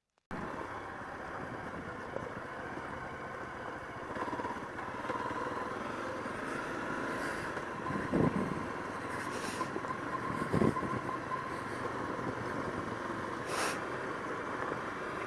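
Off-road motorcycle engine running steadily at low revs, with a couple of knocks a little past the middle and a sharp click near the end.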